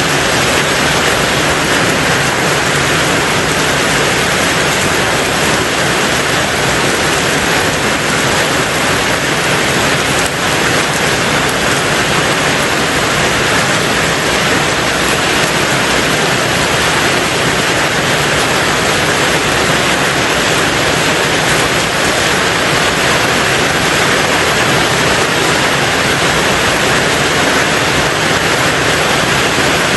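Rain falling steadily on a tin roof, a dense, even hiss with no break or change.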